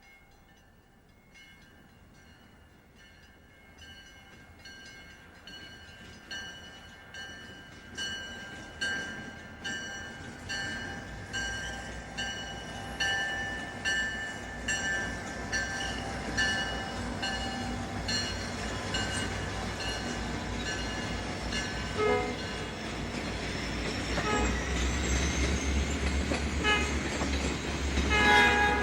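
A diesel train approaching and growing steadily louder, its horn sounding with steady high tones. A pulse about once a second rises and falls through the middle of the passage, and the low engine rumble swells near the end as the locomotives draw close.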